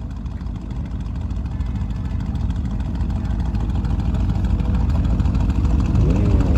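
Aston Martin Vantage engine and exhaust running with a deep, steady rumble that grows gradually louder, with a brief rise and fall in pitch near the end.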